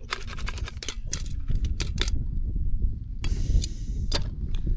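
Quick runs of sharp clicks and rattles while a camp stove whose flame has gone out is being relit, with a short hiss a little past the middle. A low rumble runs underneath.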